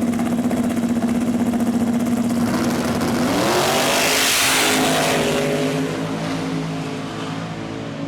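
Drag racing car engine held at steady high revs. About three seconds in it climbs in pitch as the car launches and accelerates hard, peaking in a loud rush of exhaust noise, then fading as it pulls away.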